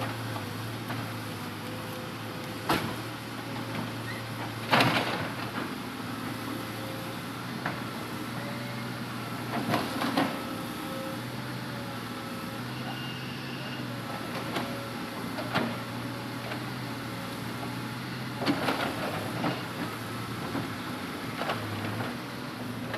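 Hitachi Zaxis 200-5G excavator's diesel engine running steadily with a wavering whine, while timber logs being loaded knock and thump, about half a dozen times, the loudest about five seconds in.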